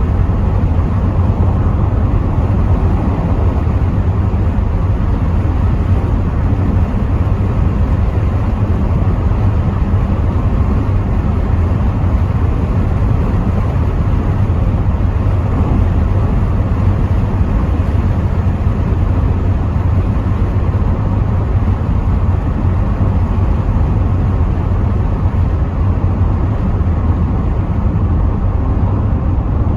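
Rover 75 V6 Tourer on the move: a steady low rumble of engine and road noise with an even hiss above it, unchanging throughout.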